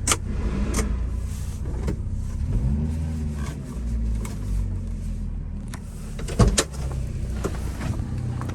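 1992 Subaru Sambar kei truck's supercharged 660 cc four-cylinder engine running steadily under way. Its note rises and falls once about three seconds in, and a few sharp knocks or rattles cut in, the loudest a little past six seconds.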